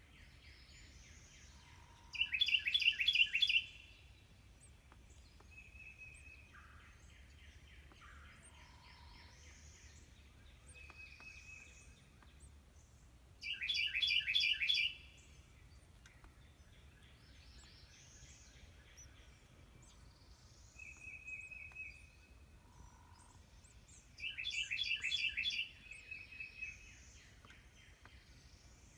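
Carolina wrens chirping: three loud bursts of rapid repeated high notes, each about a second and a half long and roughly ten seconds apart, with fainter chirps and short whistles between.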